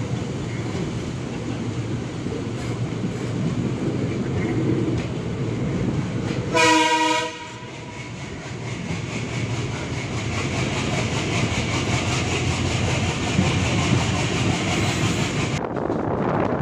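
Passenger train running, heard from an open coach window, with wheels clicking over the rail joints. About a third of the way in, the locomotive's horn sounds once, short and loud. Near the end the sound changes abruptly.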